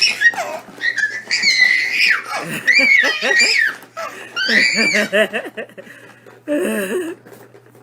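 A baby laughing: high-pitched squeals and bursts of rhythmic, pulsing giggles.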